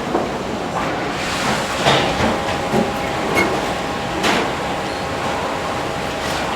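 Steady rushing noise of a busy restaurant kitchen, with a few short clinks and clatters of dishes or utensils about two, three and four seconds in.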